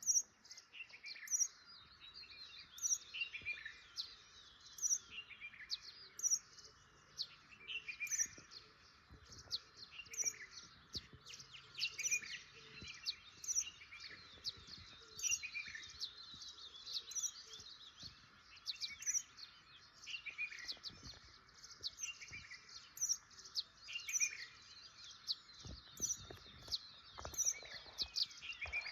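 Birds chirping: many short, high chirps and downward-sliding calls, repeating over and over, several birds overlapping, over a steady faint background hiss.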